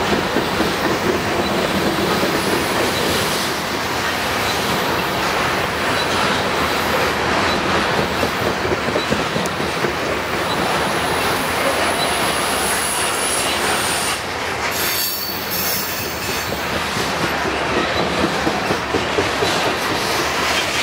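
Norfolk Southern freight train of covered hopper cars rolling past at speed: a steady, loud rumble and clatter of steel wheels on the rails, with thin high-pitched wheel squeal that comes and goes on the curve.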